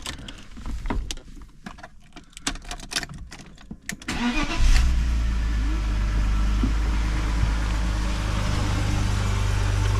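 Scattered clicks and small knocks, then about four seconds in the 1997 BMW 320i's straight-six cranks briefly and catches at once, flares and settles into a steady idle: a cold start after two days sitting.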